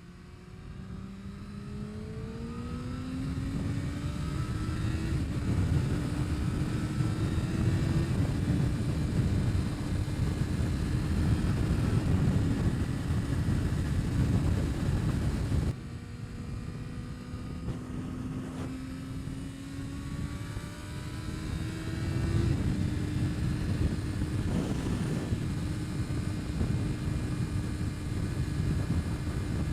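Kawasaki ZX-6R's inline-four engine pulling hard through the gears. Its pitch climbs, then drops at each upshift, then holds at a steady cruise. This happens twice, with an abrupt break about halfway. Heavy wind noise buffets the microphone underneath.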